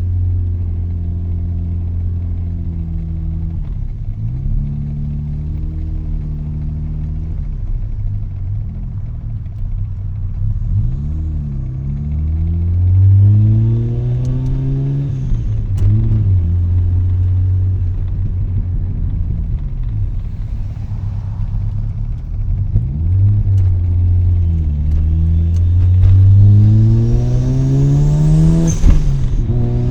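Mazda RX-7's rotary engine through an RE Amemiya Dolphin Tail 90 Curl exhaust, heard from inside the cabin with the windows down. The car accelerates and cruises: the engine note climbs, drops at each gear change and holds steady between. Near the end it pulls hardest, with a higher whine on top.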